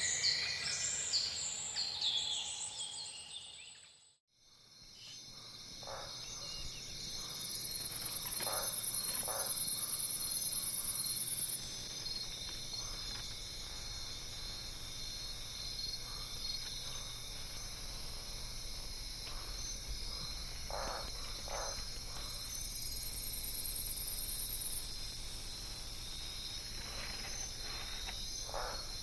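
Rainforest ambience: a few seconds of bird chirping fade out to silence about four seconds in. A steady insect chorus of crickets then takes over, with a higher shrill buzz swelling in twice and short scattered calls over it.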